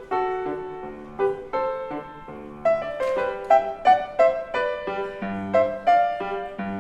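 Piano playing a classical-style piece: a steady run of struck notes over held lower notes.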